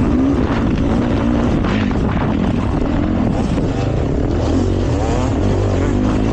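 Dirt bike engine revving up and down repeatedly as the bike is ridden along a trail, with wind noise on the microphone.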